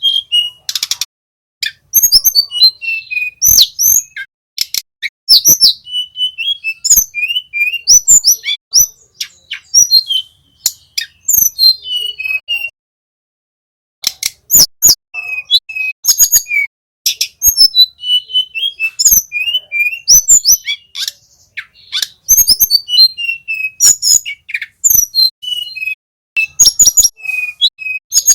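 Small flycatchers singing in a loud recording: rapid high chirps, whistled notes and short trills, with sharp clicks among them, breaking off for about a second near the middle.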